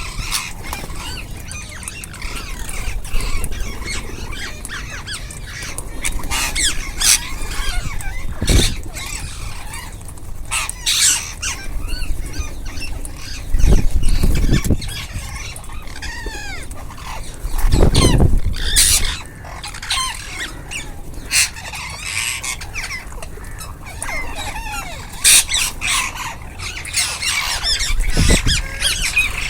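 A flock of ringneck parrots calling over one another, with many short shrill squawks and some bending, chattering notes. A few dull low thumps stand out every several seconds.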